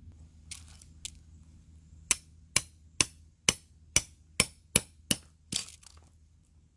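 A run of sharp striking knocks: two light taps, then nine hard strikes at about two a second, each ringing briefly.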